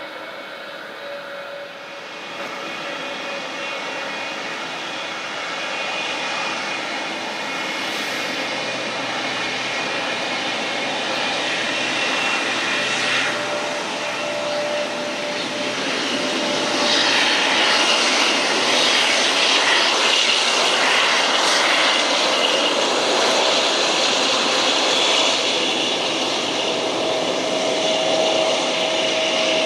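Jet airliner's engines growing steadily louder as the plane nears, a rushing roar with a held whine, then staying loud.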